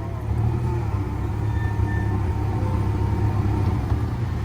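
Casey Jr. Circus Train rolling along its track: a steady low rumble.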